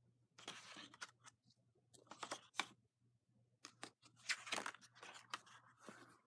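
Faint irregular rustling and crackling, broken by sharp clicks, in three uneven bursts over a low steady hum.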